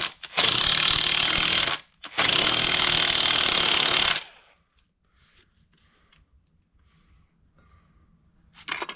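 Power tool running in two long bursts, spinning a nut down the thread of the Bilstein shock absorber's rod while the strut is reassembled, then stopping about four seconds in.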